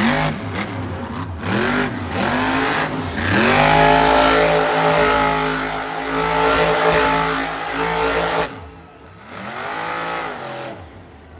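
Monster truck engine revving: a few quick throttle blips, then held at high revs for about five seconds before dropping off sharply, followed by one more short rev near the end.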